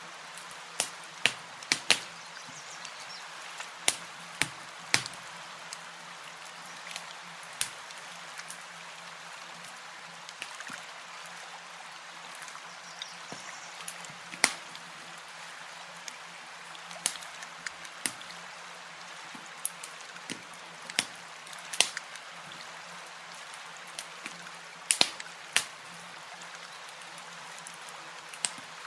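Campfire crackling: irregular sharp pops and snaps, some of them loud, over a steady soft hiss.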